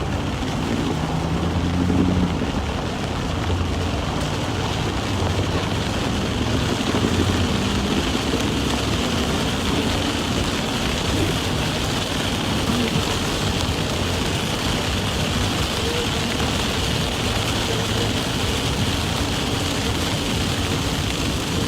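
Heavy rain pouring on a car's roof and windshield, with the hiss of tyres on the flooded road, heard from inside the cabin. The engine's hum rises in pitch in the first couple of seconds as the car pulls away, then the rain noise carries on steady.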